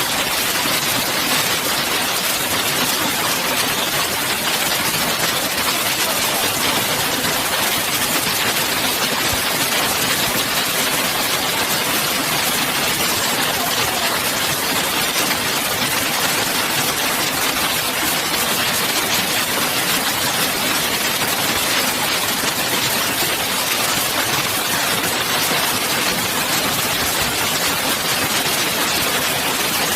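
Hail pounding down in a dense, continuous clatter of countless small impacts merging into a steady roar.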